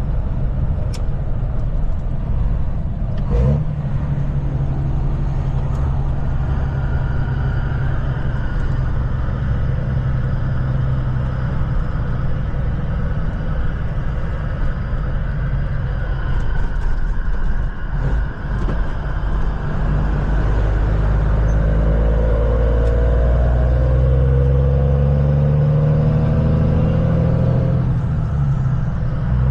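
Kenworth semi truck's diesel engine running on the road, with steady engine and road noise. After about twenty seconds it gets louder and the engine note climbs in pitch as the truck picks up speed.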